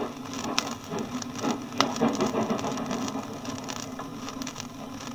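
Archive recording of the Capitals Limited express train running, a steady rumble and rattle with a couple of sharp clicks, played from a record through the music centre's speakers.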